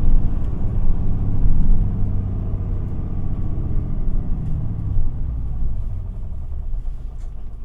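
Isuzu Erga city bus's diesel engine running under way, heard inside the passenger cabin. Its note drops lower and fades about six seconds in as the bus eases off.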